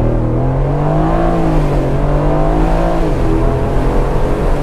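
Aston Martin Vantage Roadster's twin-turbo V8 under full-throttle acceleration from a launch, heard from the open cabin. The engine note climbs in the first second, holds, then drops about three seconds in at an upshift.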